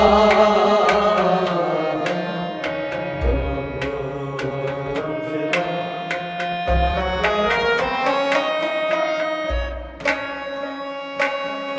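Instrumental interlude of Kashmiri folk music: sharply struck string notes ringing over sustained melody tones, with a hand-drum accompaniment and deep drum strokes about every three seconds.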